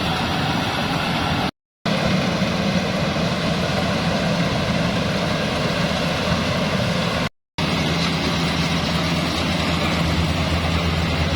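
Bimo Plus mobile rice-threshing machine running steadily: an engine drone with a low hum under a broad rushing noise. The sound drops out to silence briefly, twice.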